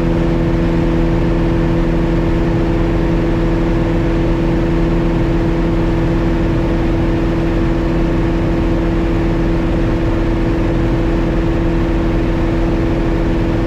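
Piper Cherokee 180's four-cylinder Lycoming O-360 engine and propeller droning steadily at climb power, heard from inside the cabin; the engine is new and in its break-in hours, with all gauges in the green.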